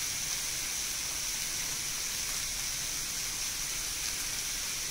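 Chopped onions and tomatoes frying in a pan, a steady even sizzle.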